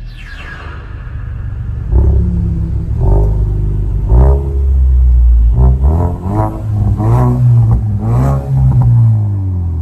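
A 2019 Mustang EcoBoost's turbocharged 2.3-litre four-cylinder rumbling at idle through a Kinney's Street Demon custom dual performance exhaust. It is then revved in short blips, a few spaced ones followed by a quicker run of revs.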